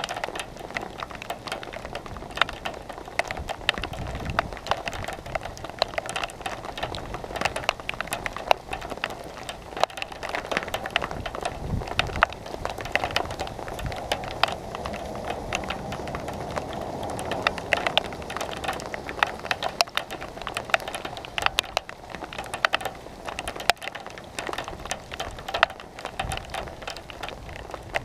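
Rain falling, with many drops ticking sharply and irregularly on a hard surface right by the microphone, and a couple of brief low rumbles about four and twelve seconds in.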